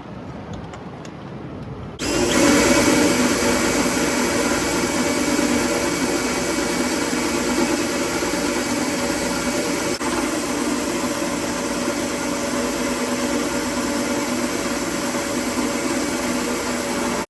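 A power tool's motor starts up loud about two seconds in and runs steadily at one constant speed, stopping abruptly at the very end.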